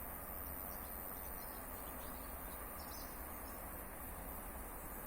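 Quiet summer outdoor ambience: a steady high-pitched insect drone, with a couple of faint chirps about two and three seconds in.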